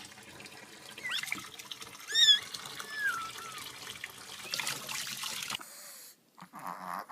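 Water running from a tap in a thin stream, with a few short high cat mews over it.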